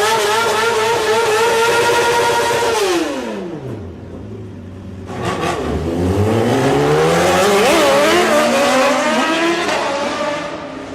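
A BMW S1000RR sport bike's engine is held at high revs, then the revs fall away. About five seconds in, it revs up hard again, with the pitch climbing and dropping quickly a couple of times, before fading slightly.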